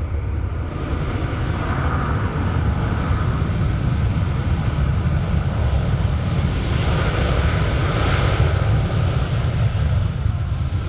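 Jet airliner engines heard close by: a loud, steady rumble with a rushing noise over it. It builds over the first second and swells a little around eight seconds in.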